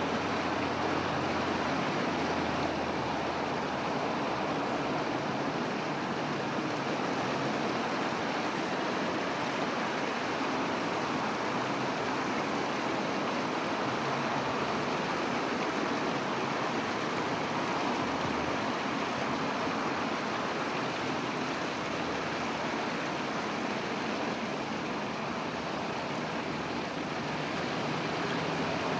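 Steady, even rushing noise with no birdsong standing out.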